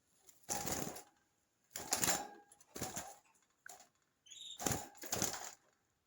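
Budgerigars in a cage: four or five short noisy bursts of wing flapping, with a brief high chirp about four seconds in.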